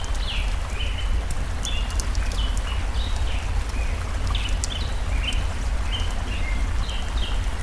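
Flowing stream with a steady low rumble, a bird chirping in short, rapidly repeated notes over it, and the sharp pops of a crackling wood fire scattered throughout.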